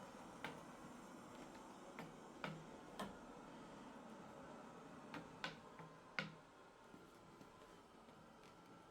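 A few scattered light clicks and taps, about eight in all, the loudest a little past six seconds in, over faint room tone.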